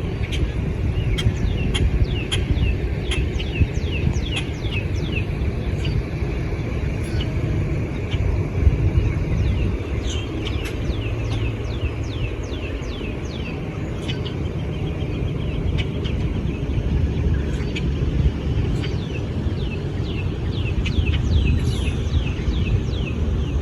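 Steady low outdoor rumble, with birds chirping in quick series of short falling notes throughout.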